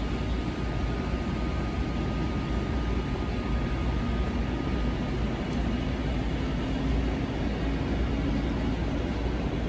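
SNCB/NMBS electric multiple-unit train rolling slowly through the station at a distance: a steady rumble, with a faint motor hum that rises slightly in pitch midway.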